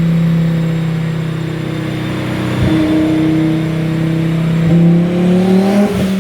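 Turbocharged Volvo five-cylinder engine running at steady high revs. It holds one pitch, dips briefly twice, and climbs slightly near the end.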